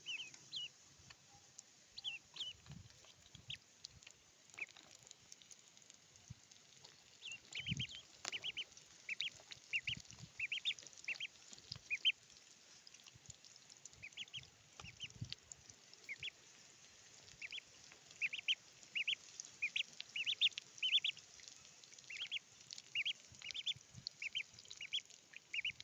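Ducklings peeping: many short, high-pitched cheeps coming in quick runs, with a few soft low thumps among them.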